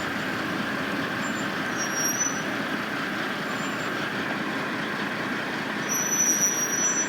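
Steady drone of heavy construction machinery and trucks working, with brief thin high-pitched squeals about two seconds in and again near the end.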